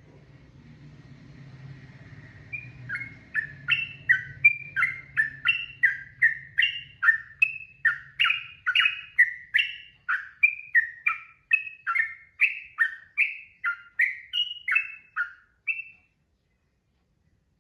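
Yellow-vented bulbul (trucukan) singing a long, fast, unbroken run of short notes, about two or three a second, each sliding down in pitch, ending abruptly near the end. A faint low hum lies under the first few seconds before the song starts.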